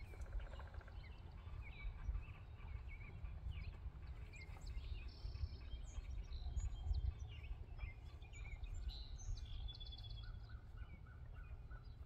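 Small birds chirping here and there over a steady low outdoor rumble on the microphone.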